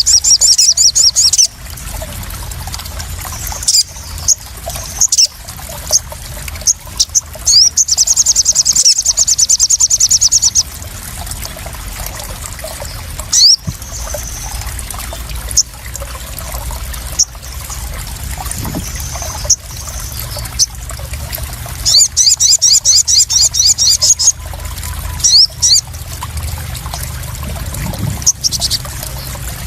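Sunbirds (sogon) singing, with fast high trills three times and short high chirps between, over a steady sound of trickling, splashing water.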